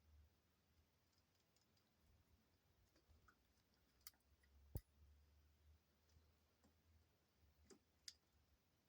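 Near silence: faint room hum with a handful of soft, sharp clicks and taps, the loudest about five seconds in.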